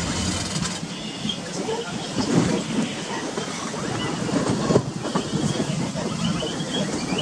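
Passenger train coach running along the track: steady wheel-and-rail rumble with rail-joint clatter and a sharper knock near five seconds in.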